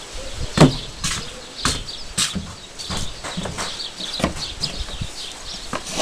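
A series of irregular knocks and clatters, the loudest about half a second in, typical of boards and tools being handled during building work.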